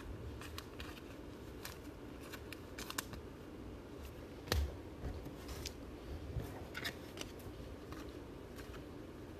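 Faint, sporadic clicks and rustles of trading cards and pack wrappers being handled, with one sharper click about four and a half seconds in.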